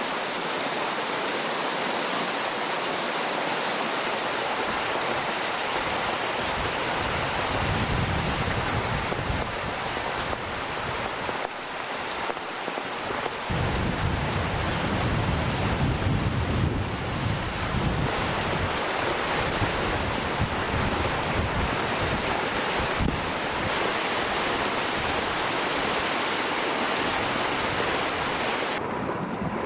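Heavy tropical-storm rain pouring and wind blowing, with gusts buffeting the microphone as a low rumble. The sound changes abruptly several times.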